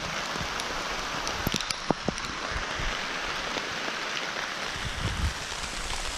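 Steady rain falling, an even hiss, with a handful of sharp raindrop taps close by around one and a half to two seconds in.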